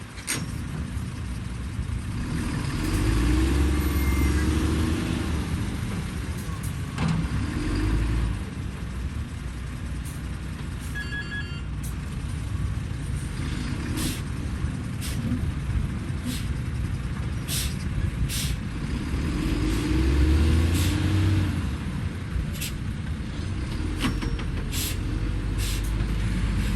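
Heavy diesel earthmoving machinery running steadily, its engine note swelling under load twice. A short run of beeps sounds about eleven seconds in, and sharp clanks and knocks come through the second half.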